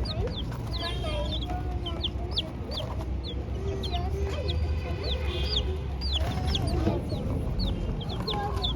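Several young chicken chicks peeping continuously, with short high-pitched peeps coming rapidly and overlapping, and lower wavering calls beneath them.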